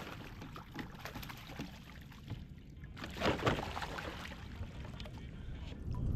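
Water lapping and trickling around a kayak, with a low steady rumble, a few faint knocks and a louder wash of water about three seconds in.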